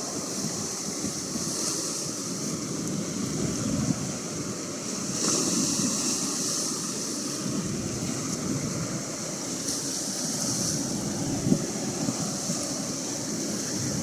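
Atlantic Ocean surf washing steadily, its hiss swelling as waves come in about five and ten seconds in, with wind buffeting the microphone.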